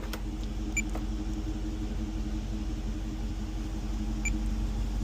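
Steady low rumble of a car, with a constant hum, and two short high beeps about three and a half seconds apart.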